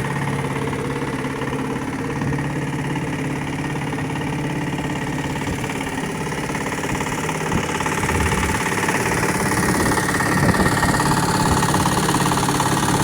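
A boat's engine running steadily with an even drone, growing a little louder about eight seconds in.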